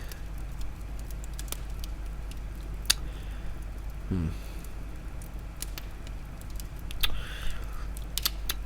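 Pause in speech: a steady low hum with scattered small clicks, and one brief falling vocal murmur about four seconds in.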